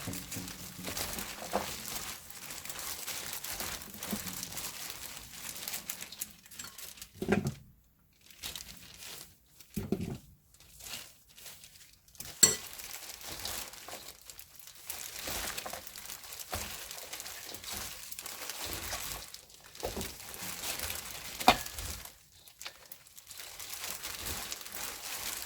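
Garlic chives being tossed and rubbed by hand with wet chilli seasoning, a steady crinkly rustling with short pauses. A few dull thumps and two sharp knocks cut through it.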